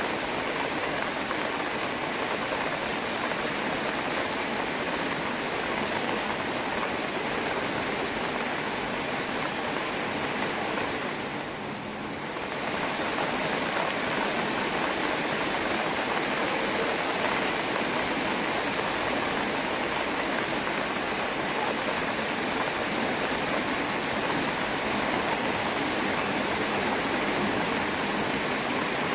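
Steady rain falling, a dense even hiss of drops pattering on surfaces and water, dipping briefly about twelve seconds in.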